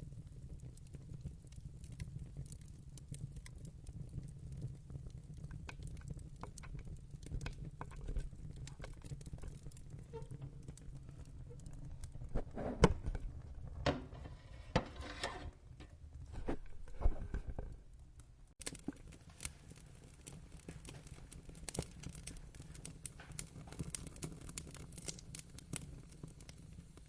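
Wood fire crackling in a fireplace: a steady low rumble of the flames with scattered small pops, and a run of louder snaps and pops about halfway through.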